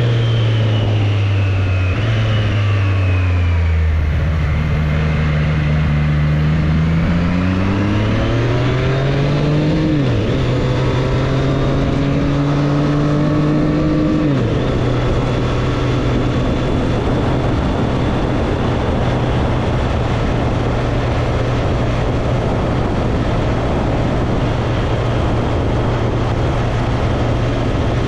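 Triumph Street Triple's inline three-cylinder engine on the road: it slows with two downshifts, accelerates and upshifts twice, then holds a steady note while cruising, with wind noise over it for the second half.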